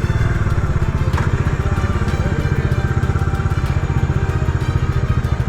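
Bajaj Pulsar 125 motorcycle's single-cylinder engine running steadily under the rider, an even train of firing pulses.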